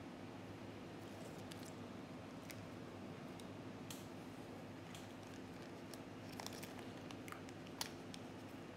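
Quiet eating sounds: soft bites and chewing of a chocolate chip ice cream sandwich and light rustles of its paper wrapper. These come as a scattering of small clicks over a steady low hum.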